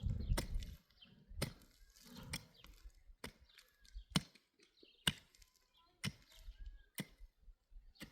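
Repeated chopping strikes, one sharp blow about every second, with a low thud at the start.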